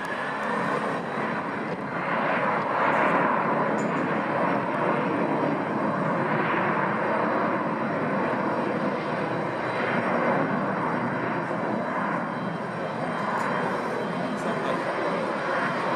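Boeing 767-300 freighter's twin jet engines at high power for takeoff, a loud steady rushing noise that swells up about two seconds in and then holds with slow rises and falls.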